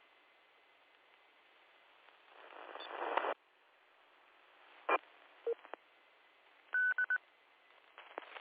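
Two-way radio audio off a ham repeater: steady receiver hiss, then a burst of static that rises for about a second and cuts off sharply about three seconds in. After that come a click and a few short electronic tone beeps, three of them quick and high at around seven seconds, with more clicks near the end.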